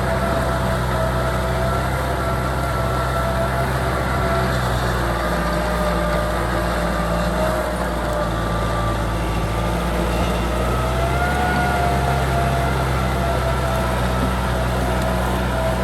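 Kubota M6040 SU tractor's diesel engine running steadily under load while plowing, a low hum with a whine that wavers slightly in pitch.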